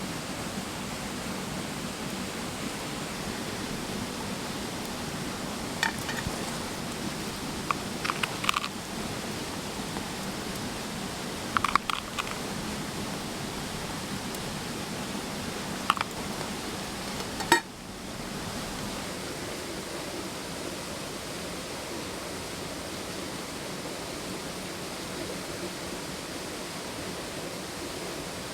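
A mountain stream's steady rush of flowing water, with a handful of sharp pops and crackles from a wood campfire scattered through the middle.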